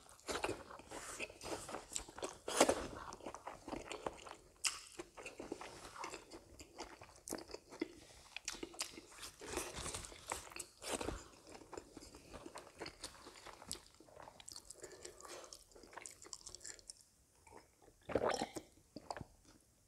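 Close chewing and crunching of rice and curry eaten by hand, with many small mouth clicks and smacks. Near the end come a few louder sounds as he drinks from a glass mug.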